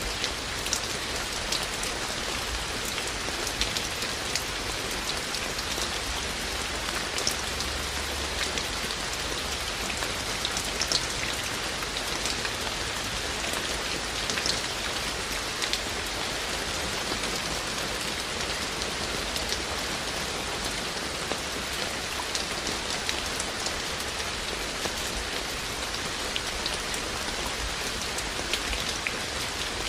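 Steady rain falling, an even hiss with many individual raindrops ticking sharply through it.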